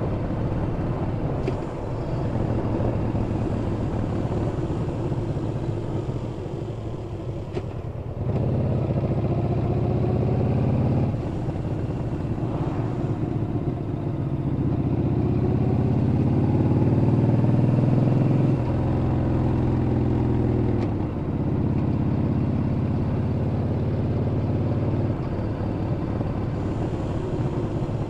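Yamaha Bolt's air-cooled V-twin engine running under way, heard from the bike. The engine note climbs under throttle and drops back a few times.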